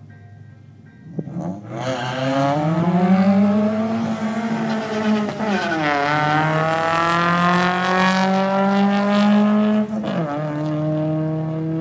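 Ford Focus 2.0-litre four-cylinder engine launching off the drag strip start line at full throttle about a second in. It revs up in pitch through the gears, with upshifts about five and a half seconds in and near ten seconds.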